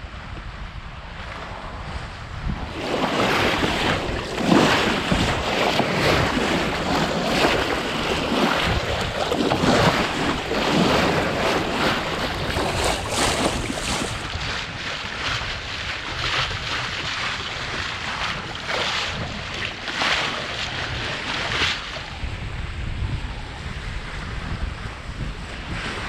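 Wind buffeting the microphone while water rushes and splashes along the hull of a Beneteau Oceanis 38.1 sailboat under sail. The rush of water swells about three seconds in and comes in surges, easing after the middle, over a steady low rumble of wind.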